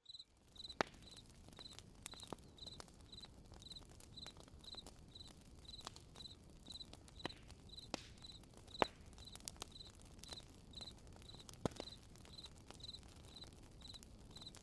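A cricket chirping at an even pace, about two to three high chirps a second, over a low campfire hiss with scattered sharp crackles and pops, the loudest near the start and about two-thirds through.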